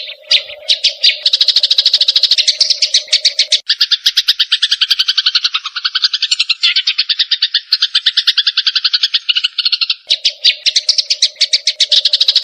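Rapid, unbroken bird chatter from a grey-cheeked bulbul (cucak jenggot) and a Eurasian tree sparrow (burung gereja) calling against each other, as in a masteran song track. The notes repeat about ten times a second. A few seconds in, the pattern switches to a faster, denser trill, then changes back near the end. A steady low hum runs under the first and last stretches.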